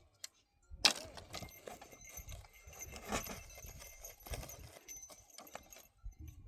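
Horse hooves clip-clopping in an uneven run of knocks, starting about a second in after a moment of silence.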